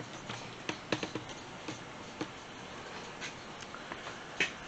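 Irregular light clicks and taps, about a dozen scattered over a few seconds, with the sharpest one near the end, over faint room noise.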